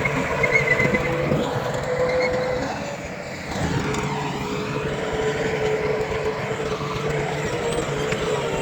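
Heavy diesel earthmoving machinery running steadily with a constant whine, easing off briefly about three seconds in before picking up again.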